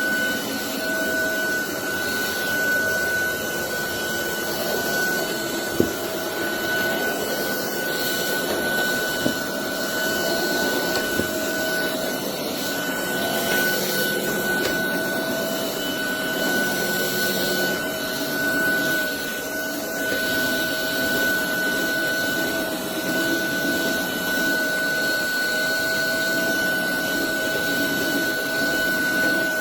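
Roborock Dyad Pro wet-and-dry cordless vacuum running steadily with a high, even whine over its hiss. A couple of sharp clicks come about six and nine seconds in.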